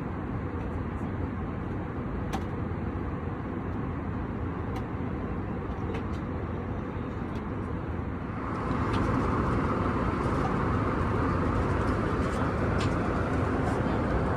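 Steady cabin noise inside an Airbus A321 airliner, with a few faint clicks. About eight and a half seconds in, the noise steps up louder and brighter.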